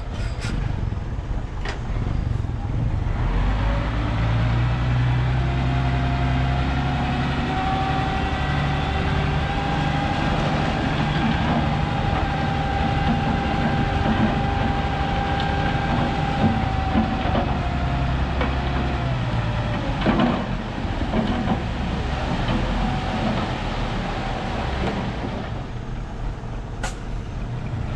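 Heavy diesel engine of construction machinery running steadily with a deep rumble. A steady whine sounds from about five seconds in and fades out a few seconds before a knock about twenty seconds in.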